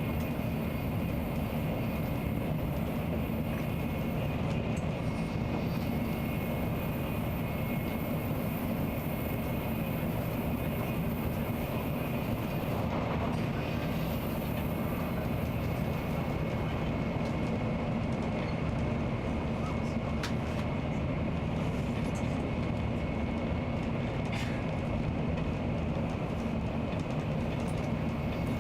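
Nozomi Shinkansen bullet train running at steady speed: an even, continuous low rumble and rush of noise with a faint steady whine above it.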